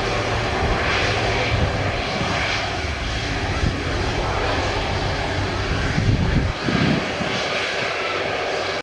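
Jet airliner's engines running, a steady broad rush with a low rumble underneath.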